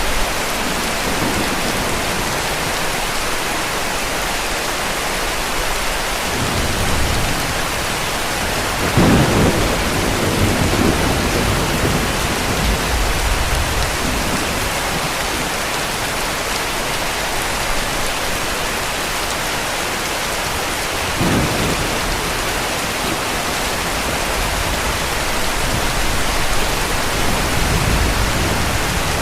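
Steady heavy rain with distant thunder rumbling underneath. The longest, loudest rumble comes about nine seconds in, and a shorter one a little past twenty seconds.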